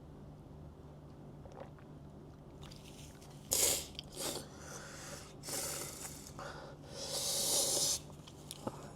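A person hissing and puffing hard breaths through the mouth, several short ones and then a longer one near the end, from the burn of extremely hot chili food. A steady low hum sits under it.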